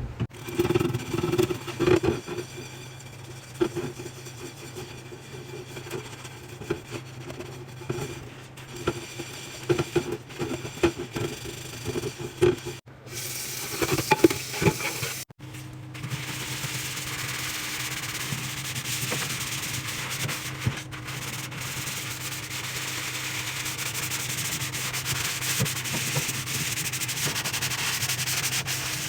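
Scrubbing and wiping inside a microwave in uneven strokes for about the first fifteen seconds, broken by two short cuts. After that comes a steady hiss with a low hum.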